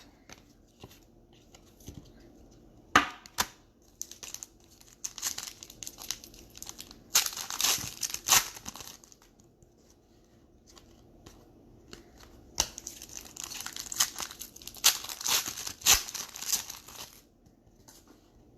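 Crinkling and rustling of plastic and foil packaging as trading cards are handled, in bursts: once about three seconds in, then a longer spell in the middle and another in the second half.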